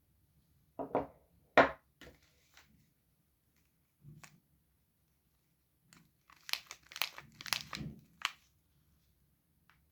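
Soap packaging wrapper crinkling and tearing as a bar of soap is unwrapped. There are a few sharp crackles about a second in, one more around four seconds, then a quick run of crackling in the second half.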